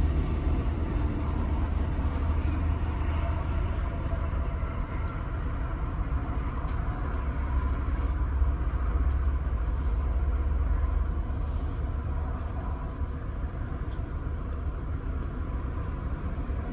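Steady low rumble of a car heard from inside the cabin while driving: engine and road noise.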